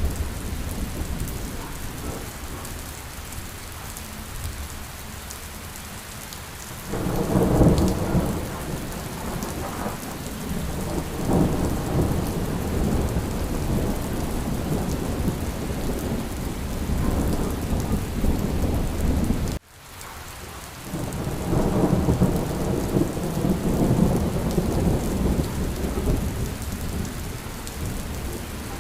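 Steady rain with low rolling thunder that swells and fades several times. The sound cuts out for an instant about two-thirds of the way through.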